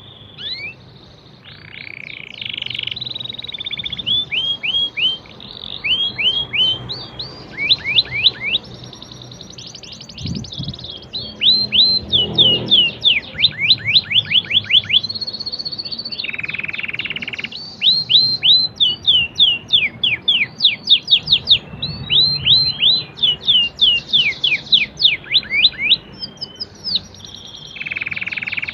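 Domestic canary singing a long song: runs of quick downslurred whistled notes, several a second, alternating with short buzzy rolls held on one pitch.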